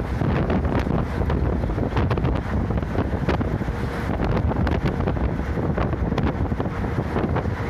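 Steady low rumble of a route bus driving at speed on a highway, with wind rushing over the microphone and frequent small rattles and clicks.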